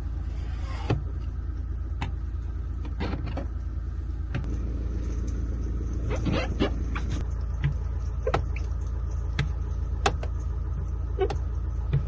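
Campervan running with a steady low drone, with scattered sharp clicks and knocks over it. The drone grows a little louder about four seconds in.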